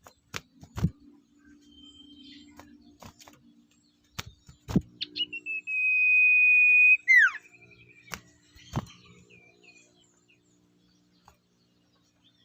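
A bird gives one long whistle held on a single pitch for about two seconds, ending in a quick falling slide. Several sharp clicks and knocks come before and after it, over a faint steady hum.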